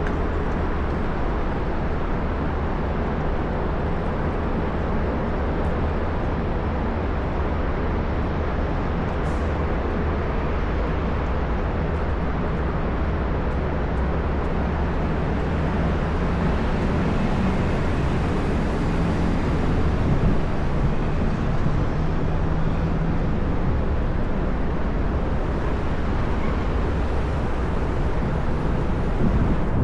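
Steady downtown street ambience: a continuous rumble of traffic with a slight swell a little past the middle.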